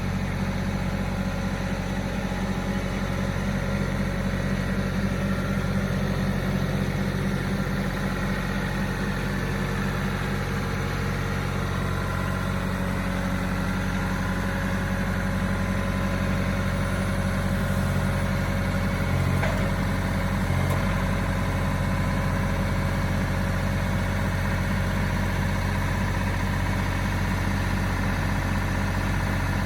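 An engine idling steadily, with two brief low knocks about two-thirds of the way through.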